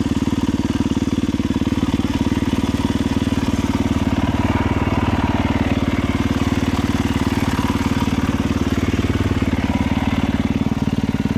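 Motorcycle engine idling steadily, its rapid firing pulses even and unchanging.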